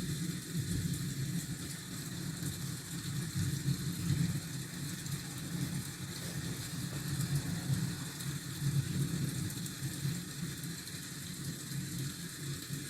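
Steady low rumble of city traffic with an even hiss of rain over it, like a rainy-street ambience track.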